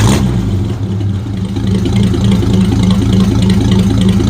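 1950 Ford F1 pickup's flathead V8 idling steadily with a low, slightly pulsing rhythm, shortly after being started.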